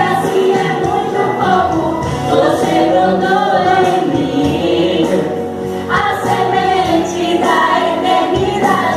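A group of voices singing a gospel song in chorus over instrumental accompaniment.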